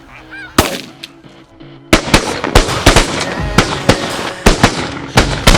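Shotgun fire at decoying snow geese: a few goose calls and a single shot about half a second in, then from about two seconds in a rapid volley of many shotgun blasts, several a second, as several hunters fire together.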